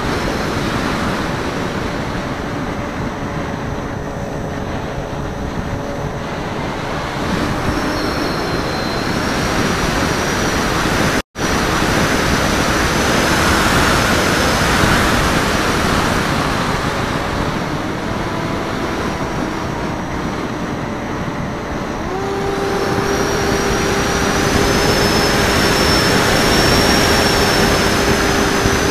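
Airflow rushing over the wingtip-mounted camera's microphone of a Raptor FPV radio-controlled plane in flight, over the drone of its electric motor and propeller. The motor's pitch shifts with throttle and steps up sharply about 22 seconds in. The sound cuts out for a moment about 11 seconds in.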